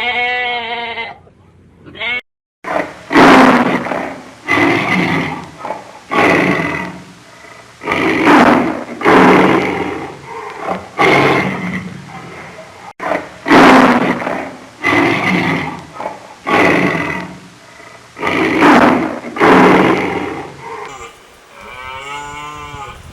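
A large animal roaring in a long series of about a dozen loud, rough roars roughly one and a half seconds apart. Before the series there is a short pitched bleat, and near the end there is a fainter pitched call.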